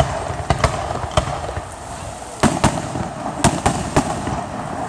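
Fireworks going off: a run of sharp bangs from bursting shells, about nine in all and some in quick pairs, over a steady background hiss.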